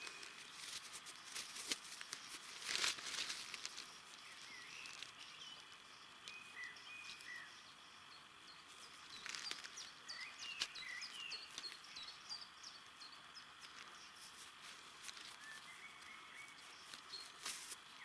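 Small birds chirping faintly in woodland, with scattered light clicks and a brief rustle about three seconds in.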